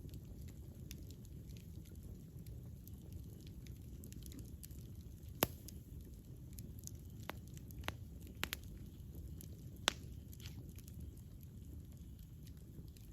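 Wood campfire burning with a steady low rumble and scattered sharp crackles and pops; the two loudest pops come about five and ten seconds in.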